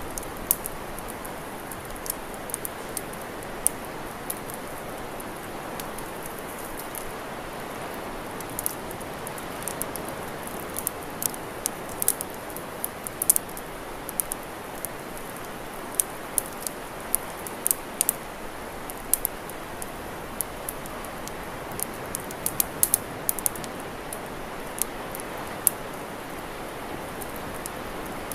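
Campfire crackling: irregular sharp pops and snaps, sometimes several in quick succession, over a steady rushing hiss.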